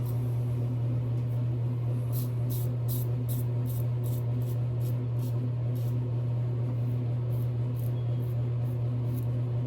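Double-edge safety razor scraping across lathered stubble in short strokes, about two to three a second, starting about two seconds in, over a steady low hum.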